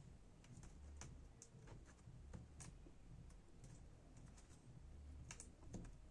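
Faint, irregular light clicks and taps from hands working over the MSI Prestige 15 laptop keyboard, fitting double-sided adhesive tape around the keys, over a low steady hum.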